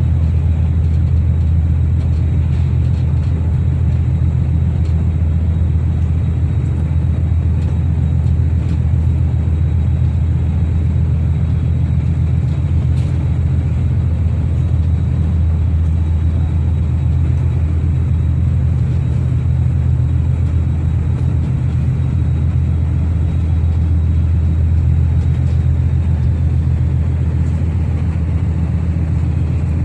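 Ferry's diesel engines running with a loud, steady low drone made of several deep tones.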